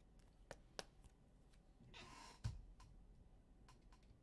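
Near silence with a few faint clicks and taps, as of trading cards being handled, and a soft hiss about two seconds in.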